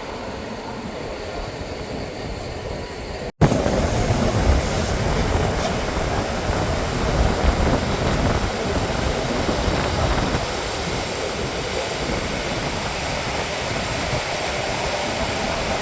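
Bernina train running along the rails, a steady noise of wheels and carriage in motion. It drops out for an instant a little over three seconds in and comes back louder.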